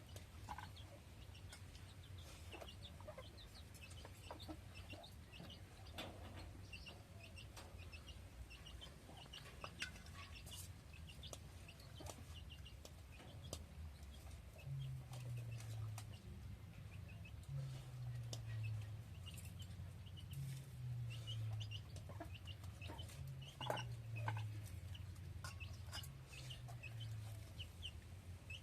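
Domestic chickens clucking faintly, with many short scattered calls over a low hum; from about halfway a low, repeated stepping tone joins in.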